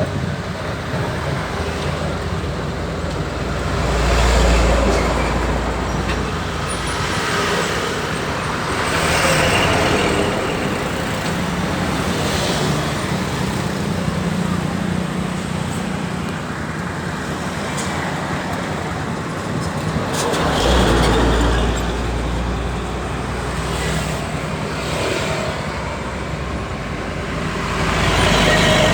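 Road and engine noise from riding a Tosa motorised three-wheeler along a highway. Larger vehicles pass several times, each swelling and fading: about four seconds in, around nine seconds, around twenty-one seconds and near the end.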